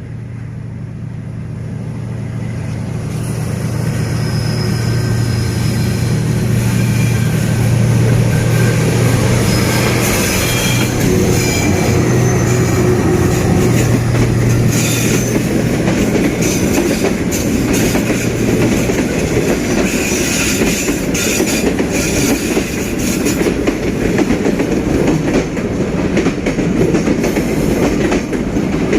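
D19E diesel locomotive hauling a passenger train past, its steady engine drone growing louder over the first several seconds. After about two-thirds of the way the drone gives way to the coaches rolling by with wheel clatter, and short high wheel squeals come and go.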